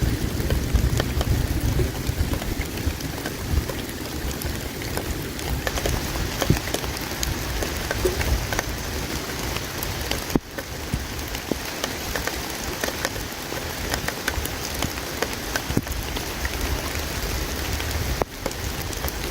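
Campfire crackling with many small sharp pops over a steady rush of flowing river water.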